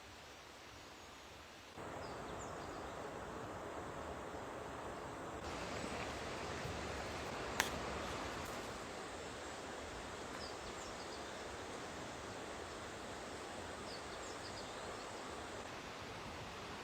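Steady rushing storm noise of wind and weather, which steps up in level about two seconds in. A single sharp click sounds near the middle.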